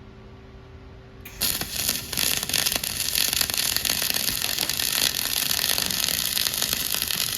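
Dual-shield flux-cored arc welding: after a low hum, the arc strikes about a second in and runs on as a loud, steady crackling hiss.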